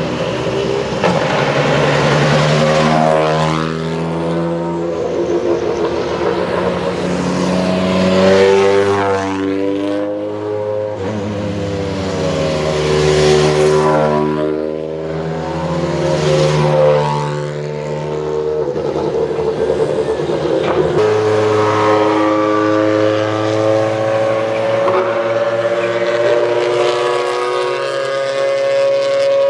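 Toyota GR Yaris Rally1 rally cars driving past one after another, their engine notes rising and falling several times as each goes by. After about two-thirds of the way through, one engine holds a steady note.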